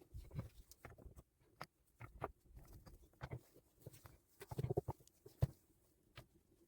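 Irregular light knocks, clicks and scrapes of hands-on handling work, with a sharper knock about five and a half seconds in.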